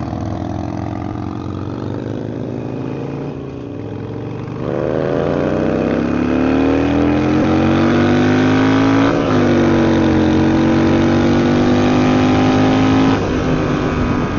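Harley-Davidson Sportster V-twin accelerating away from a stop, its note rising in pitch through the gears. It gets louder about a third of the way in, dips briefly at a gear change, then runs steadily before the throttle eases off near the end.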